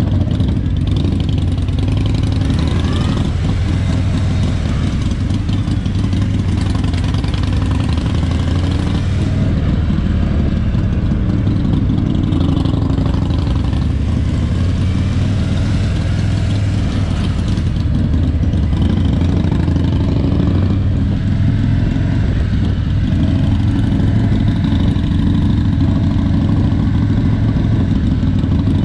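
A 2019 Harley-Davidson Road King's Milwaukee-Eight 107 V-twin engine running steadily while the bike is ridden, heard from the handlebars.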